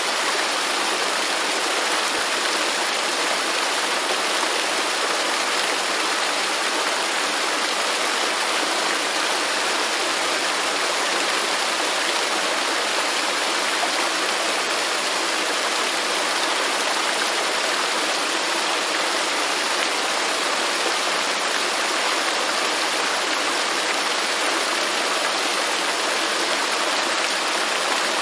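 Waterfall pouring: a steady, even rush of falling water with no let-up.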